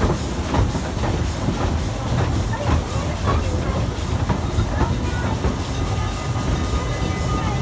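Narrow-gauge Efteling steam train running, with a steady low rumble and sharp clacks of the wheels over rail joints. About six seconds in, a steady high-pitched squeal sets in over the rumble.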